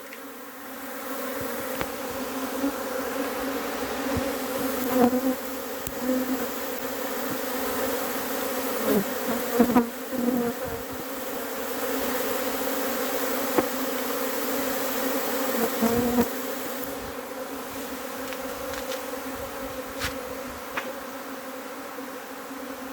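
Dense, steady buzzing of a honey bee swarm as thousands of bees settle into a hive box, the swarm moving in with its queen. A few bees pass close by now and then.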